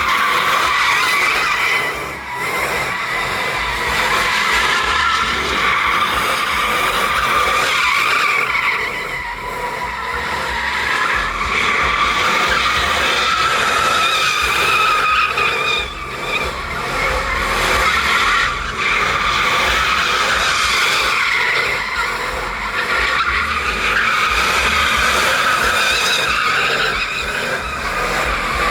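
Truck doing a burnout: the engine is held at high revs while the rear tires spin and squeal against the pavement, loud and continuous. It eases off briefly a few times.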